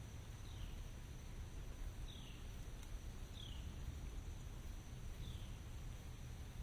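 Steady outdoor hiss with a low rumble, over which a small animal gives a short, high, falling chirp about every second and a half, four times.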